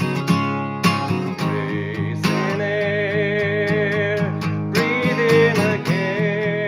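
Acoustic guitar strumming chords, with a long held melody note wavering in vibrato over it about two seconds in, and another near the end.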